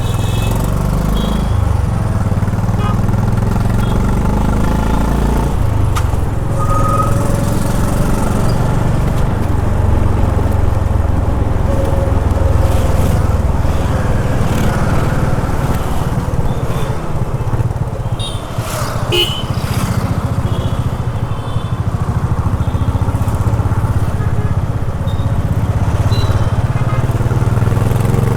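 Honda H'ness CB350's single-cylinder engine running under way through city traffic, with a steady low rumble that shifts briefly about six seconds in.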